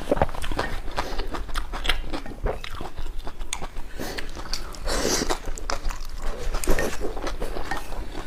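A person chewing and biting food close to the microphone: irregular wet clicks and crunches.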